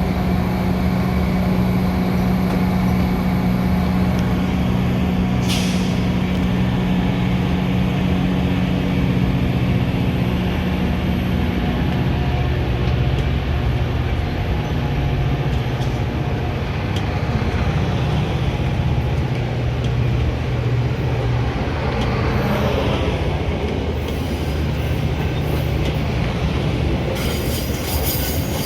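Metra commuter train running on the rails, with a steady low hum that shifts lower about twelve seconds in. A short hiss comes about five and a half seconds in, and rhythmic wheel clicks build near the end.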